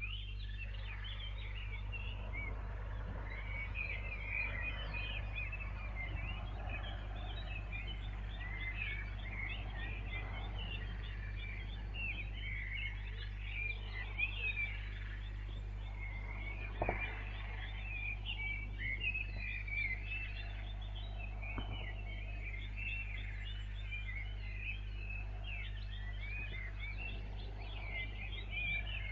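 Dawn chorus: many small birds chirping and singing over one another, above a steady low hum, with a couple of faint clicks about two-thirds of the way through.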